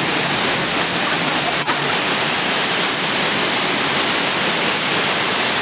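Waterfall: a steady, loud rush of falling water, briefly broken for an instant about one and a half seconds in.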